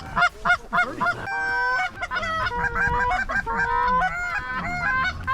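Canada goose honks and clucks, several voices overlapping in a rapid run, with a few longer drawn-out notes in the middle.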